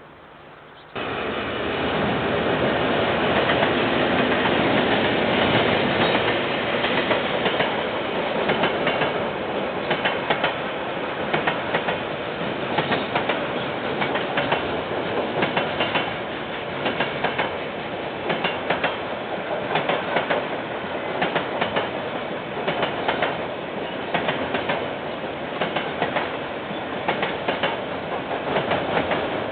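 KiwiRail freight train rolling past, starting abruptly about a second in: a steady rumble of wagons with the wheels clicking in repeated groups over the rail joints.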